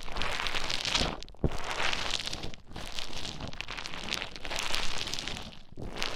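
Play Foam beads squished and stirred close to the microphone, a dense crackling squish in several strokes broken by short pauses.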